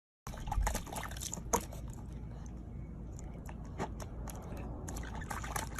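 Water splashing and dripping, with many small irregular clicks over a steady low rumble.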